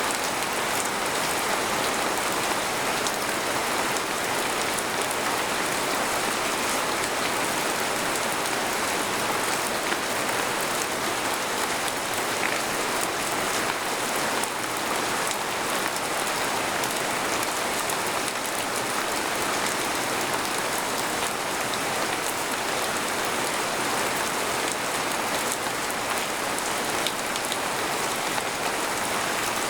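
Steady rain falling on a tent, an even hiss with many small drop taps and no thunder.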